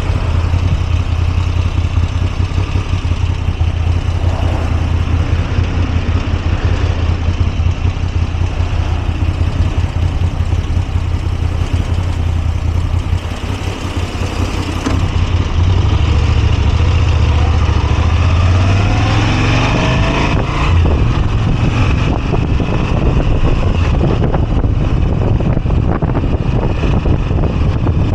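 Moto Guzzi V85TT's air-cooled V-twin engine running while riding, with a steady low hum. It eases off briefly about halfway through, then gets louder and rises in pitch as it accelerates.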